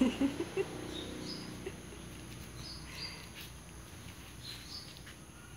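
Small birds chirping faintly in the background: a few short, high chirps at irregular moments over quiet room noise.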